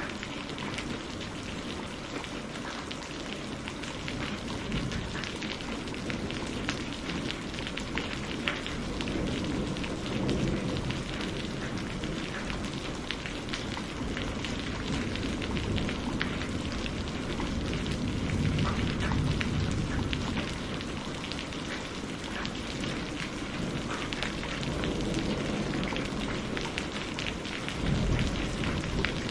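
Steady rain with dense pattering drops and low thunder rumbling, swelling and fading a few times, loudest a little past the middle and again near the end.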